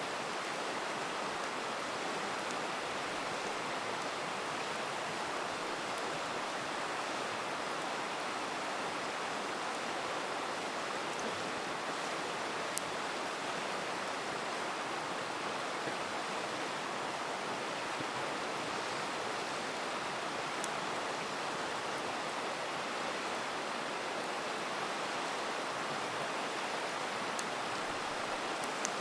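River rushing steadily, with a few faint pops from a crackling campfire now and then.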